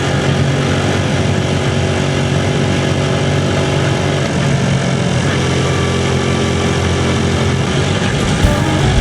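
Motorcycle engine running steadily at low revs, heard from on the bike, with a steady hum under a rush of road noise. The engine note shifts slightly about four seconds in.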